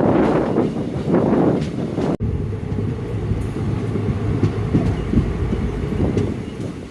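Passenger express train running on the rails, a steady rumble with scattered wheel knocks. It changes abruptly about two seconds in, where the sound drops to a duller, lower rumble.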